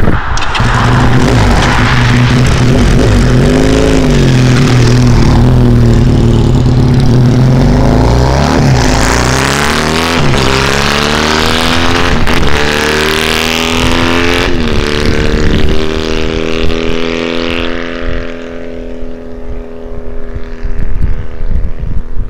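A 2009 Johnny Pag FX3 300 cc motorcycle running loud with no muffler on a drive-by. The engine pitch climbs in several steps as the bike accelerates up through the gears, then holds steady and fades away near the end.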